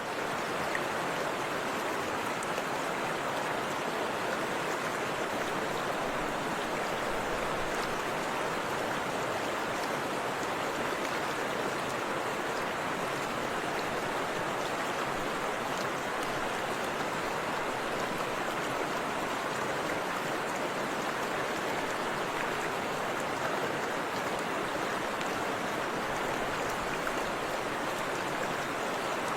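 Forest river water flowing and splashing over rocks, a steady even rushing with no change in level.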